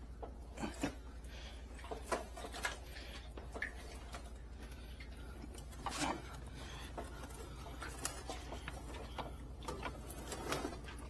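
Scattered clicks, knocks and light clunks as a motorcycle is handled and rolled down off a vehicle, over a steady low hum.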